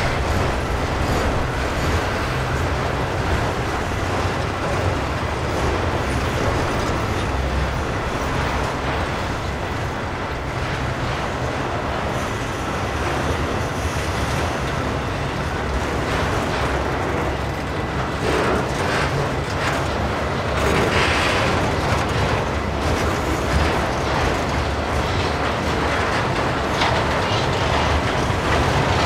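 Freight train's autorack cars rolling past, their steel wheels giving a steady running noise on the rails.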